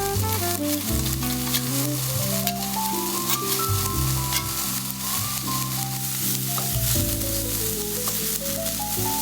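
Food sizzling and crackling in a frying pan, with many small pops. Background music plays over it, a melody in runs of notes rising and falling.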